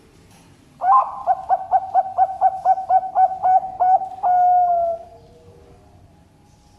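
Zebra dove (Bangkok-type perkutut) singing one full song phrase: about a dozen quick coos at about four a second, ending in a long held note that falls slightly at its close.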